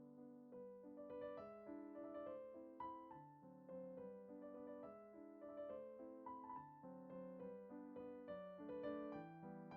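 Soft background piano music: a gentle melody over chords.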